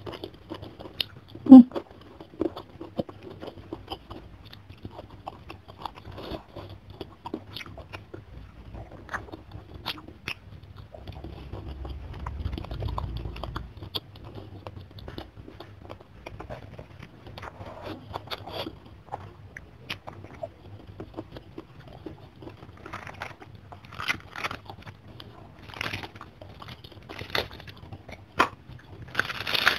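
Close-miked eating: chewing, wet mouth sounds and scattered crunchy bites of rice, fish and raw vegetables, with one much louder sharp bite about a second and a half in. Crisper crunches come more often near the end, as raw napa cabbage leaves are eaten.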